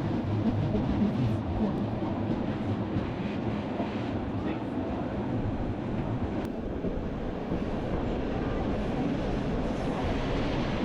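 Steady rumble of a Bernina line train running along the rails, heard from an open observation carriage.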